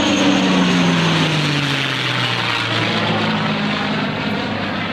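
A P-51D Mustang's Merlin V-12 and an F-15 Eagle's jet engines passing in formation: a propeller drone that falls in pitch as they go by, over a steady jet roar.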